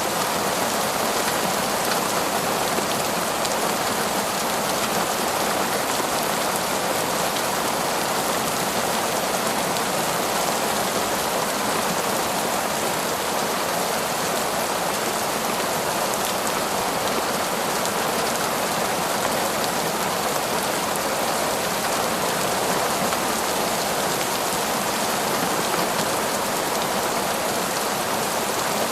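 Heavy, torrential rain falling steadily in a forest, a dense even hiss of drops with no let-up or change.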